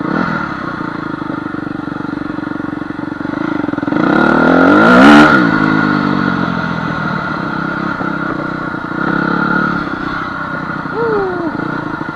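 Honda CR250 two-stroke dirt bike engine running as it is ridden. It revs up and back down about four to five seconds in.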